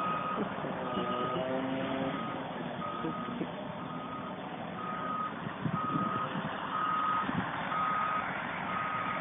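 Heavy machine's reversing alarm beeping steadily about once a second, each beep about half a second long, over the low running of a diesel engine.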